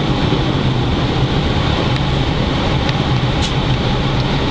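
PATH train running, heard from inside the car: a steady rumble of wheels and motors with a low hum, and a brief faint high squeal about three and a half seconds in.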